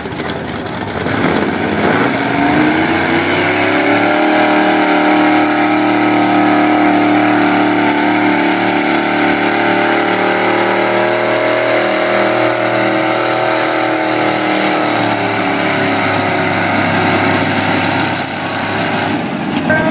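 Super Stock 4x4 pulling truck engine at full throttle during a pull. The engine pitch climbs over the first few seconds, holds high and steady, then drops away in the last few seconds as the run ends.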